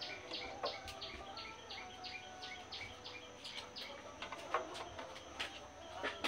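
A bird calling a fast, even series of short high chirps, about three a second, which stops after about four and a half seconds. A few sharp metallic clicks come from hand tools on the motorcycle's front fork.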